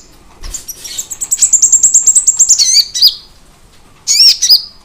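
Kolibri ninja (a sunbird) singing: a fast, high trill of rapidly repeated notes lasting about two seconds, followed by sharp looping chirps about three seconds in and again near the end.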